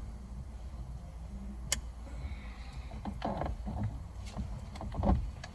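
Parts and tools being handled during steering-wheel clock spring work: one sharp click, then a run of small clicks and rattles ending in a louder knock, over a steady low hum.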